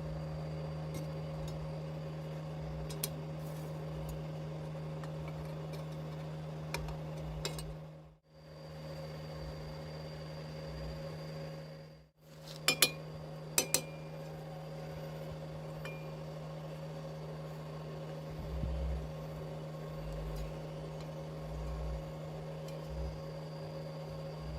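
Steady electrical hum in a workshop, with a few sharp metallic clinks about halfway through. The sound fades out and back in twice.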